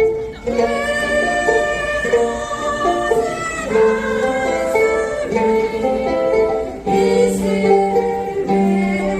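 A ukulele ensemble playing a song together, with the group singing along.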